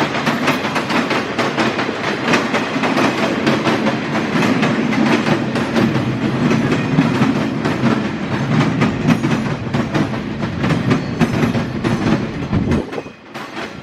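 CSX empty rail train's cars rolling past close by, their wheels clattering steadily over the rail joints. The sound drops away sharply about a second before the end.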